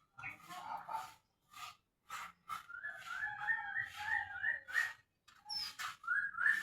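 A songbird, the rembetuk laut, singing runs of quick rising whistled notes, about three a second, in two bouts with a short pause between, mixed with brief scratchy rustling noises.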